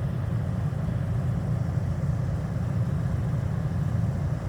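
Steady low rumble with no breaks.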